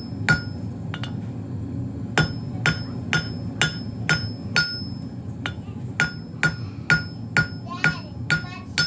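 Blacksmith's hammer striking hot steel on an anvil in a steady rhythm of about two blows a second, each blow leaving a bright metallic ring, with a brief pause about a second in. A steady low hum runs underneath.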